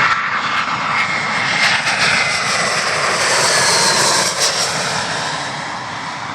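Passenger jet on final approach passing low overhead: a loud jet-engine roar with whining tones that slide down in pitch as it goes by, then fading near the end.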